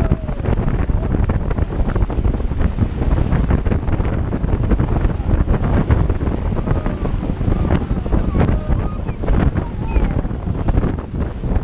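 Strong wind buffeting the microphone in a constant low rumble, over the rush of sea water.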